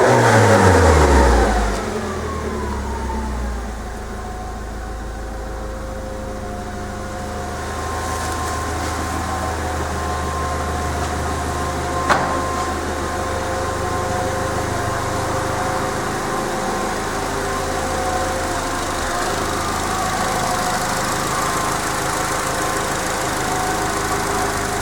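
Nissan S15 Silvia Spec R's SR20DET turbocharged four-cylinder running through a GP Sports aftermarket muffler: loud at first, with the revs falling quickly over about two seconds, then settling to a steady idle. A single sharp click sounds about halfway through.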